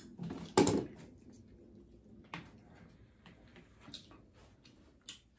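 Close-up eating sounds: chewing with scattered sharp clicks and mouth smacks, the loudest about half a second in.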